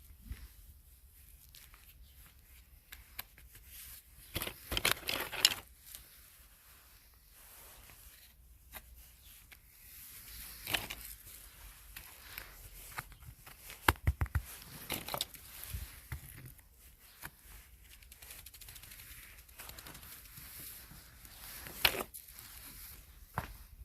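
Close-up crinkling, tearing and crackling of something being handled, in irregular clusters of sharp snaps, the loudest bunches coming about five seconds in, around fourteen seconds and near the end.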